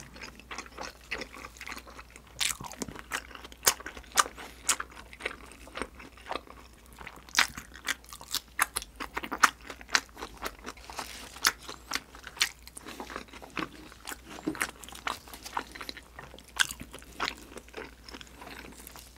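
Close-miked chewing of sauce-glazed grilled freshwater eel: irregular wet smacking and clicking mouth sounds, a few a second.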